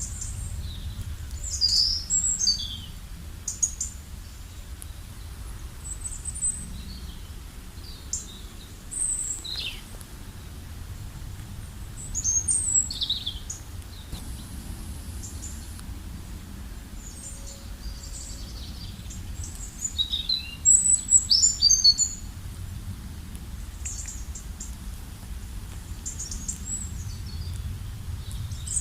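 Birds chirping: short high calls and quick falling chirps in scattered clusters, the loudest a little under halfway in and again about two-thirds in, over a steady low outdoor rumble.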